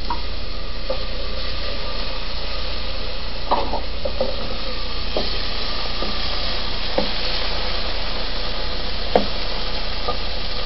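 Chopped tomato, onion, garlic and green pepper sizzling steadily in hot oil in a pan. A few short scrapes and knocks of a utensil stirring them come at intervals.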